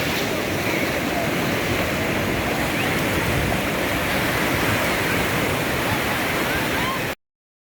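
Sea surf washing steadily onto the shore, cutting off suddenly into silence near the end.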